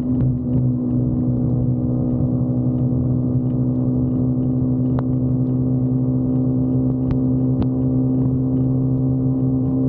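Motorcycle engine running at a steady cruising speed, a constant droning note that holds one pitch, with a few faint clicks over it.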